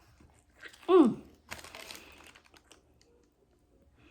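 A short falling vocal sound about a second in, then about a second of crinkling and crackling as the fast-food meal is handled.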